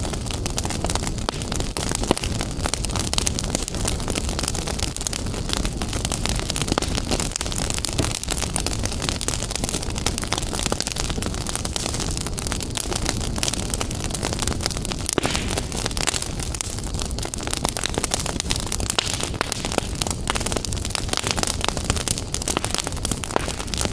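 Wood fire crackling in a fireplace: a dense, irregular run of sharp crackles and pops over a steady low rumble of the flames.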